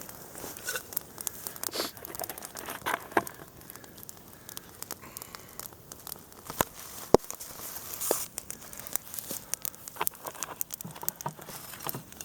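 Wood campfire crackling, with irregular sharp pops and snaps and one louder pop about seven seconds in.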